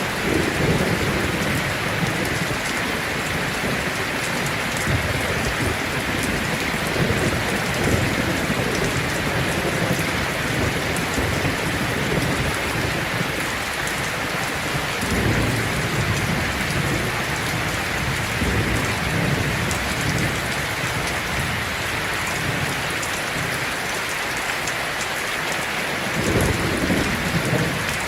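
Heavy rain falling steadily on a tin roof, with low rolling thunder underneath that swells about halfway through and again near the end.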